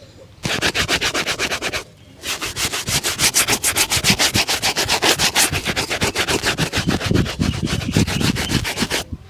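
Shoe brush buffing a polished leather shoe in rapid back-and-forth strokes, about eight a second, with a short break about two seconds in.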